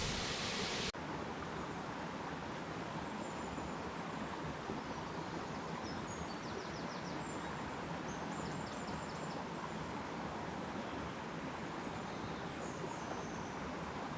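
Steady outdoor background noise with faint birds trilling, two short quick trills in the middle and a brief call near the end. A louder rushing noise cuts off abruptly about a second in.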